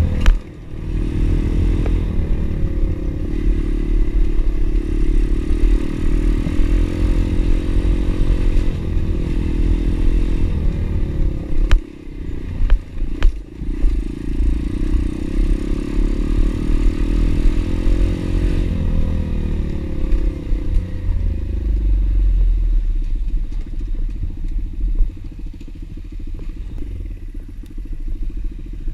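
Pit bike's single-cylinder four-stroke engine running while riding, its note shifting up and down with the throttle. A few sharp knocks and clatters, with the engine sound briefly dropping about twelve seconds in.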